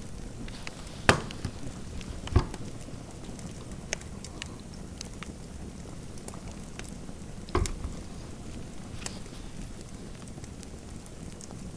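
Fireplace crackling: a steady low bed of fire noise with scattered small ticks and three sharper, louder pops about one, two and a half, and seven and a half seconds in.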